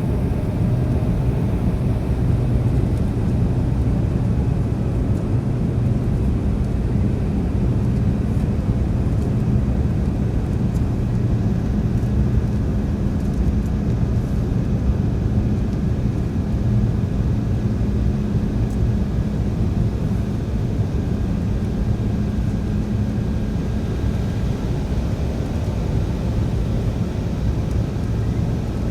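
Steady cabin drone of an Embraer ERJ175 regional jet in flight: engine hum and airflow noise with a low, even hum.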